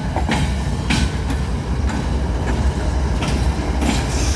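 Freight train rolling past close by: a steady heavy rumble with irregular sharp clacks of wheels over rail joints. No horn.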